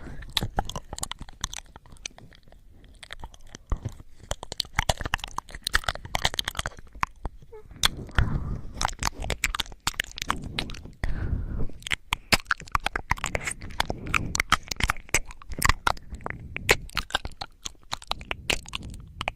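Close-microphone ASMR sounds: dense, crackly clicks and scratches, with heavier rubbing now and then, about 8 and 11 seconds in.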